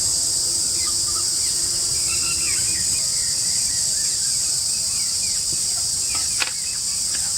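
Steady, high-pitched chorus of forest insects, with scattered short bird chirps over it and one sharp click about six and a half seconds in.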